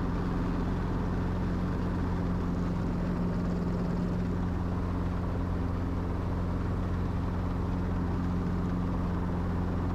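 Helicopter engine and rotor drone heard from inside the cockpit, steady and unchanging, with a constant low hum, during the descent to land.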